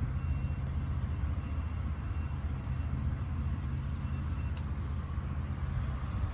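Wind rumbling steadily on the microphone, with faint short high chirps now and then.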